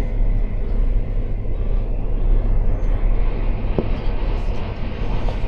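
Passenger train running along the track, heard from inside the carriage as a steady low rumble, with a single short knock about four seconds in.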